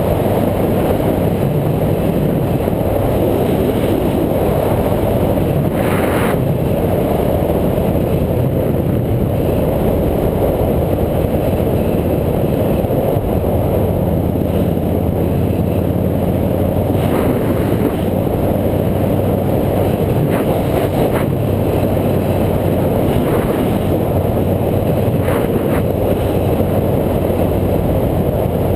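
A motorcycle engine running at a steady speed under way, with heavy wind rushing over the helmet or bike-mounted camera's microphone. A few brief clicks or knocks come through, such as road bumps.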